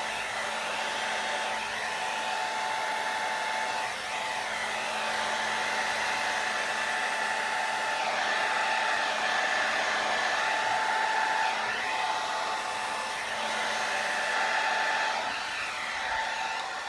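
Hair dryer running steadily on a low setting, a constant whir of air with a faint steady hum, blowing wet acrylic paint across a canvas.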